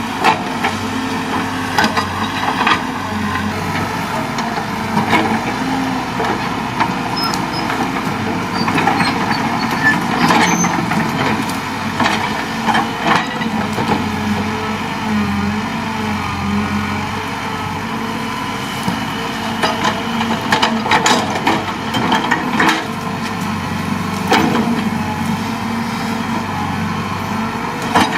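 Excavator engine running steadily, with scattered sharp knocks and clanks from the machine at work.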